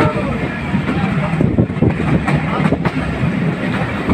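Train running on the rails: a steady, loud rumble with scattered clicks of the wheels over the track.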